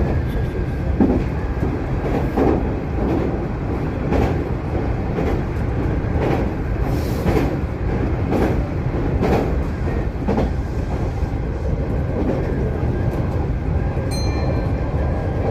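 Kintetsu electric train running at speed, with a steady rumble and its wheels clacking over rail joints about once a second. A brief high tone sounds near the end.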